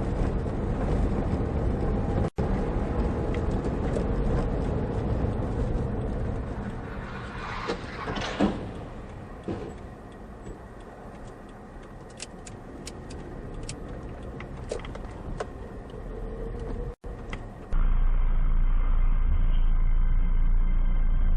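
Engine and road noise of a moving car, heard from inside through a dashcam, across several spliced clips. A brief swell comes about eight seconds in, and a few sharp clicks follow a few seconds later.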